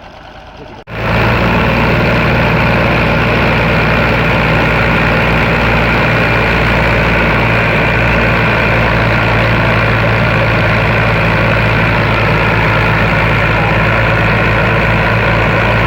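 Tractor diesel engine running steadily and loudly. It starts abruptly about a second in and then holds an even pitch.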